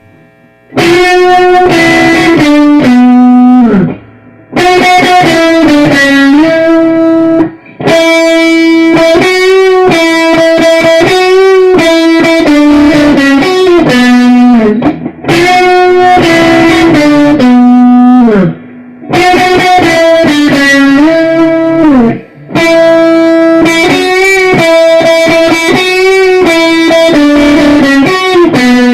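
Electric guitar with effects playing a sustained single-note lead melody with slides and bends, in repeated phrases separated by short pauses.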